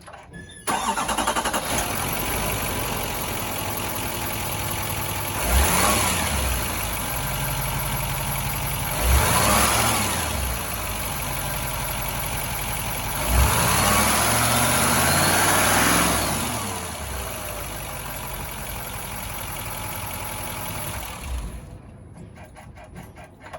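2022 Chevrolet 5500 truck engine starting about a second in, then idling steadily. It is revved three times: two short revs and a longer one held for about three seconds, each dropping back to idle. The engine sound cuts off near the end.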